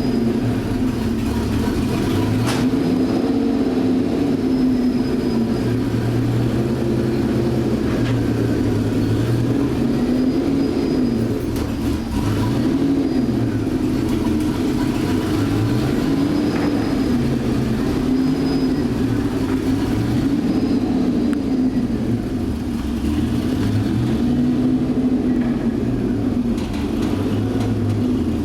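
Twin-turbo V12 engine of a Zonda-style kit car being driven hard, its note climbing and dropping again and again, every few seconds, over steady wind and road noise.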